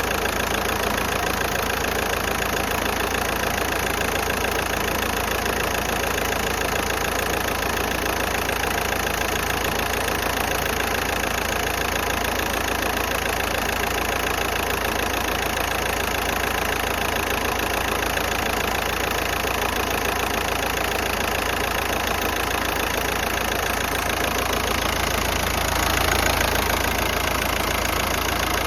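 Volkswagen Golf 5's 1.9 TDI four-cylinder turbodiesel idling steadily, briefly a little louder about 25 seconds in. The idle is uneven, with the engine shaking, and the cause is not yet known.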